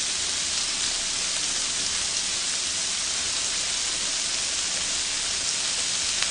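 Thin-sliced pork belly–wrapped shrimp rolls sizzling steadily on a tabletop grill plate.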